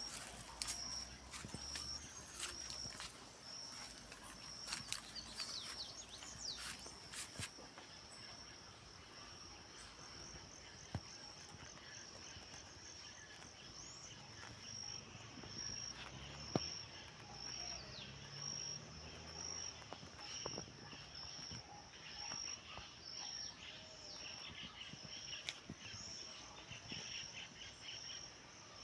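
Rural outdoor ambience: an insect, cricket-like, gives a high chirp repeated at an even pulse throughout, with occasional short bird calls and faint scattered clicks.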